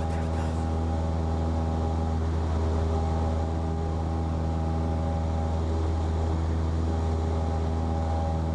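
Cessna 172P's four-cylinder Lycoming piston engine and propeller droning steadily in flight, with an even, unchanging pitch.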